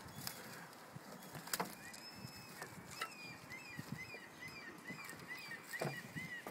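Faint bird calls: a quick run of short, high chirps, about three a second, starting about two seconds in. A couple of light knocks come in between.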